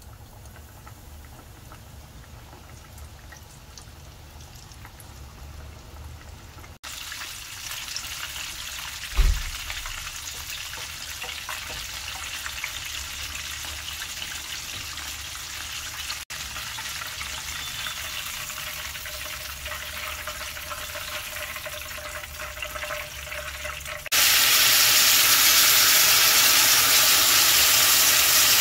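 Battered chicken thigh frying in hot oil in a pan: a steady sizzle that grows louder after a couple of cuts, with one dull low thump about nine seconds in. Near the end, a much louder hiss of sauce sizzling on a hot iron sizzle plate.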